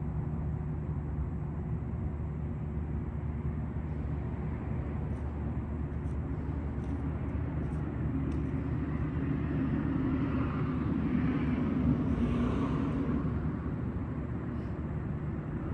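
Steady low engine hum of a vehicle, with another vehicle passing that swells and fades about two thirds of the way through.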